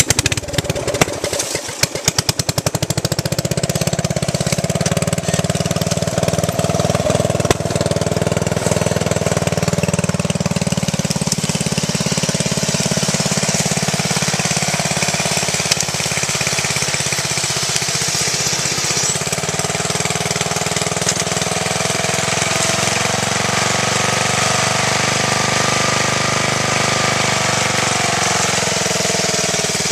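Riding lawn mower engine running with its muffler blown off, exhaust straight-piped and loud with rapid popping. It comes in abruptly and runs ragged for the first few seconds, then settles into a steady run with the engine speed drifting gently up and down.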